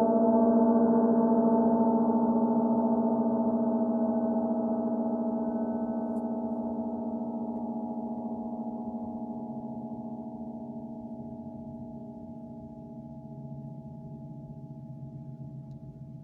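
A 32-inch Paiste Sound Creation Earth gong ringing with a deep, layered drone that peaks about half a second in and then slowly fades with a pulsing shimmer. A low hum swells up again near the end.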